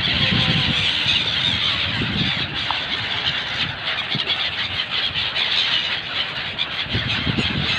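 A large flock of wintering gulls calling all at once, a dense shrill chatter with no pause, over a low rumble.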